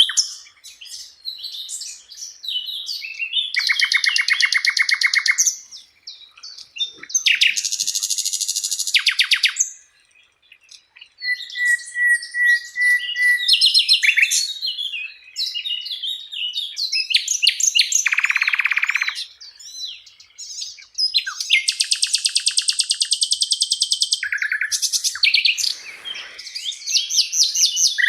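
Sikatan londo flycatcher singing a varied, rapid song: fast trills, buzzy chattering rattles and high whistled notes strung one after another with short pauses, including a brief silence about a third of the way in.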